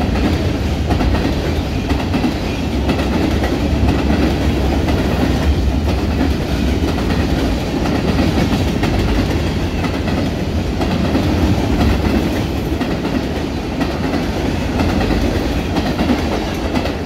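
Covered hopper cars of a freight grain train rolling past at close range, with a steady, loud clatter of steel wheels on the rails.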